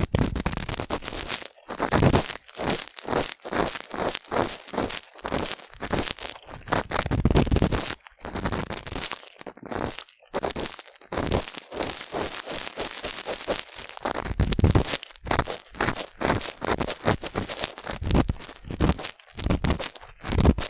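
Cotton swab rubbing and scraping in a binaural microphone's ear: close, crackly scratching in quick irregular strokes with brief pauses.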